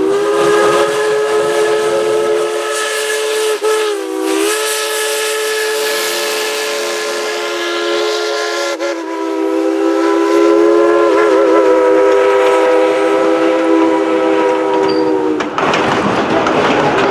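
Crosby steam whistle on steam locomotive No. 190 blowing one long chord of several notes for about fifteen seconds. The pitch wavers briefly about four seconds in and again around nine to eleven seconds, then the whistle cuts off near the end, leaving a noisy rush.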